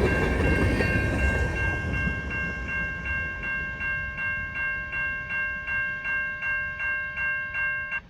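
A level-crossing warning bell rings about three strikes a second, with several fixed bell tones. Under it, the rumble of a passing freight train fades away during the first couple of seconds. The bell stops abruptly near the end.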